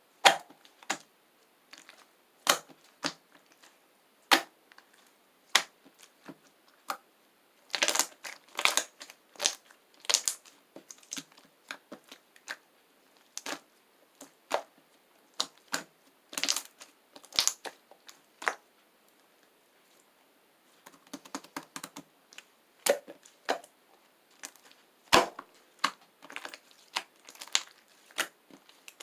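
Slime being squished and pressed by hand, making irregular sticky clicks and small pops. The clicks come in busy clusters with a short lull about two-thirds of the way through.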